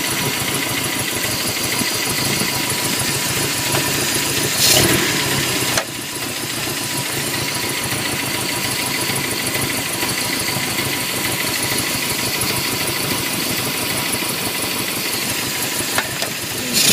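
Car engine idling steadily with a slight shake while its carburetors are being balanced with a Uni-Syn gauge. A brief rush of noise comes about five seconds in, after which the engine sound drops a little, and another short rush comes near the end.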